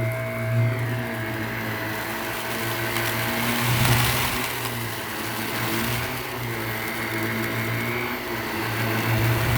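Shark Navigator upright vacuum cleaner running over carpet, its motor humming steadily. The sound swells with a louder rush about four seconds in and again near the end.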